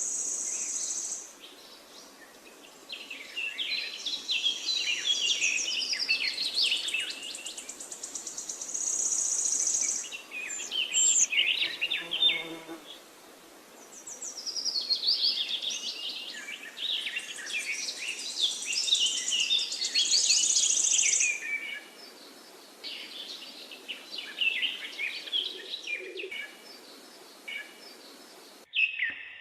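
Songbirds singing in bouts of quick chirping, warbling phrases, with a high, steady buzz that comes and goes between them.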